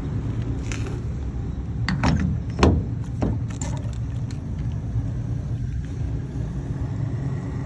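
Steady low rumble of an old GMC truck running, its exhaust not to the owner's liking. A few sharp knocks come about two to three seconds in.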